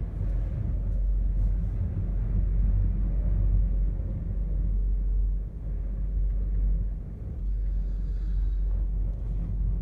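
Strong wind buffeting the microphone: a low, uneven rumble that dips briefly a couple of times.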